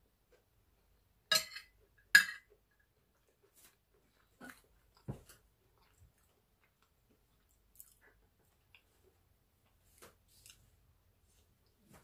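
Chewing a mouthful of rice and chicken stew, heard as soft, sparse mouth sounds. Two sharp clicks come about a second and a half and two seconds in, and a few fainter clicks come later.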